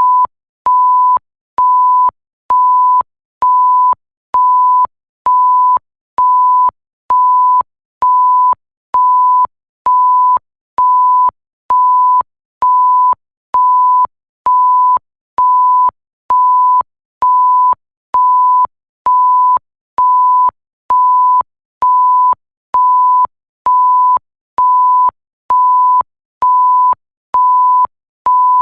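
Electronic bleep: a pure tone of about 1 kHz pulsing on and off evenly, about once a second, each beep roughly half a second long with a slight click as it starts and stops.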